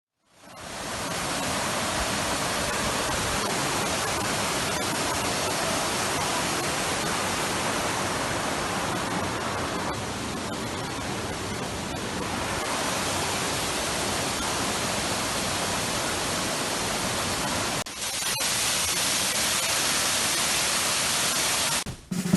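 Waterfall's steady rushing roar of falling water, fading in at the start and briefly cutting out about eighteen seconds in before continuing.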